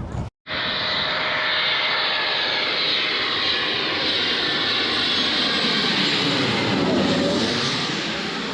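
Jet airliner engines running: a loud, steady rush with a thin whine, and a sweeping swish near the end as the sound shifts.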